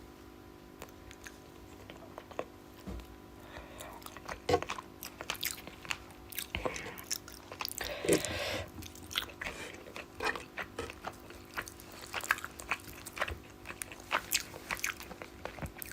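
Close-up eating sounds of someone chewing rice and fish curry: irregular wet smacks, clicks and chewing noises, over a faint steady hum.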